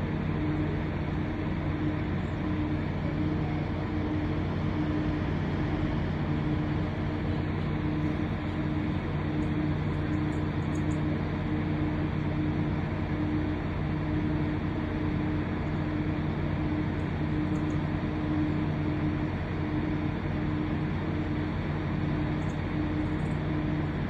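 Towboat's diesel engines running steadily in the lock: a low, even drone with a constant hum.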